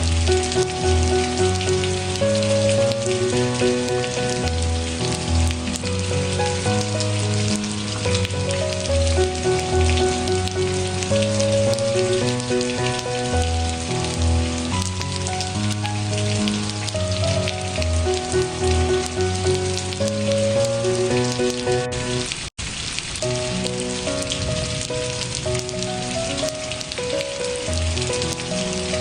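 Steady rain hiss under a melody of held notes with a low bass line. The sound cuts out for an instant about three quarters of the way through.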